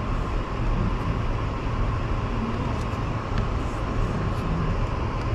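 Steady low rumble and road noise of a car driving slowly, heard from inside the cabin.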